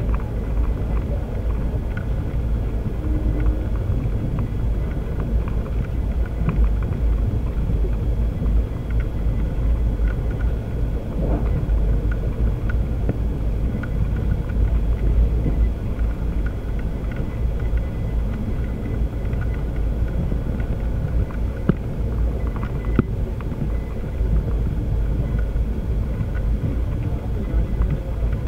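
Steady low rumble of a moving passenger train heard from inside the carriage, with two short sharp clicks near the end.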